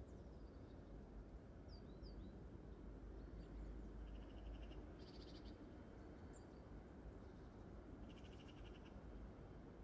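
Near-silent open-air ambience with a faint low rumble, over which small birds give a few short high chirps and, about halfway through and again near the end, brief rattling trills.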